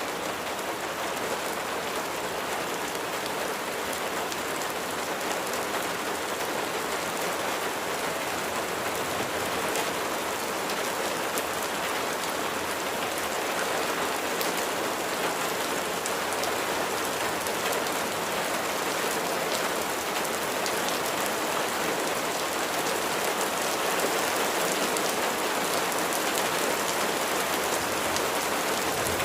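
Steady rain falling, a dense even patter of raindrops hitting a surface with fine crackling detail and no pauses.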